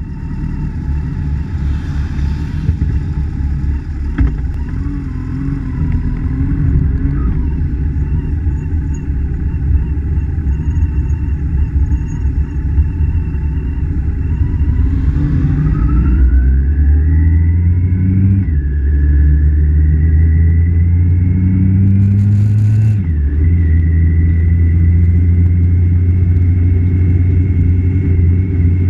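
BMW GS boxer-twin motorcycle engine riding on the road with wind rumble on the microphone. From about 15 seconds in it pulls hard through the gears, rising in pitch with two upshifts, then settles to a steady cruise.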